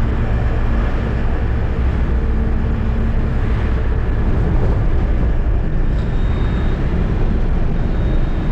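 Eicher truck's diesel engine running steadily with road noise while driving, heard from the cab.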